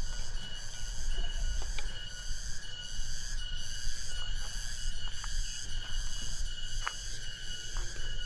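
Insects calling in a high, steady chorus that pulses about twice a second, over a low wind rumble on the microphone.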